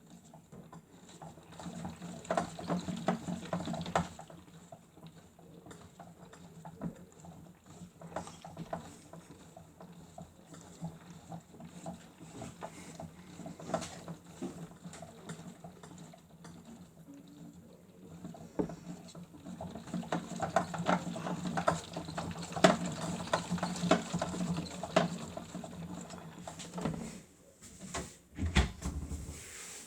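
Toy Miele W1 washing machine's small motor humming as it turns the drum in two spells, about two seconds in and again from about nineteen seconds in. Water and laundry patter in the drum, and it goes quieter when the drum rests in between.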